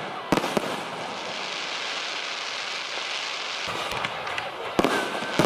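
Fireworks bursting overhead: about six sharp bangs at irregular intervals, with a steady hiss between them.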